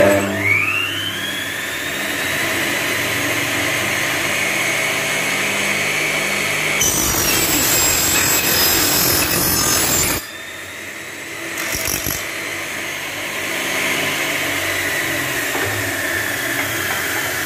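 Double-head aluminium profile cutting saw switching on, its motor winding up with a rising whine and then running steadily. About seven seconds in, the blade cuts through an aluminium window profile for about three seconds, a loud shrill hiss. The saw keeps running after the cut, with a brief noise burst about two seconds later.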